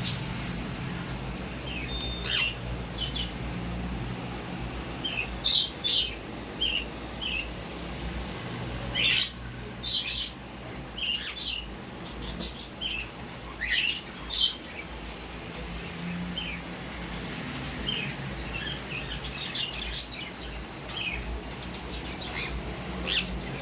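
A parrot chirping and whistling in many short, high calls, some in quick clusters, with no words.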